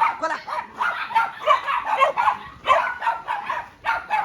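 Several dogs barking and yipping in quick overlapping succession, a few barks a second.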